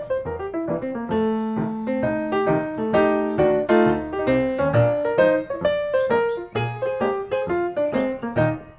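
Piano music: a lively run of single struck notes and chords, several a second.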